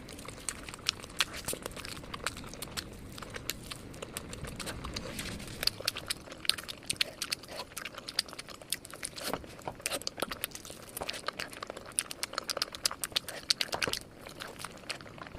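Close-miked crunching and chewing of crispy fried peri peri chicken drumsticks: a dense run of crisp crackles and bites that never lets up.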